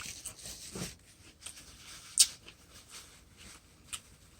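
A person eating between remarks: faint chewing and mouth noises with small clicks, one sharper click about two seconds in.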